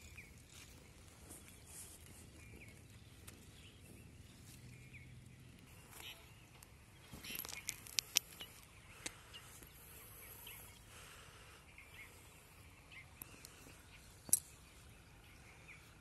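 Quiet outdoor ambience with faint, scattered short bird chirps. A few sharp clicks and a rustle come around the middle, and one more click near the end.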